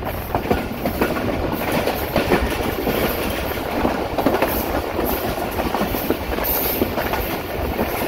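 Shalimar Express passenger coach running on the track: a steady rumble with the irregular clickety-clack of wheels passing over rail joints.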